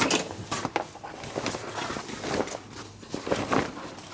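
A string of small irregular knocks, clicks and rustles: objects being handled and set down in a workshop.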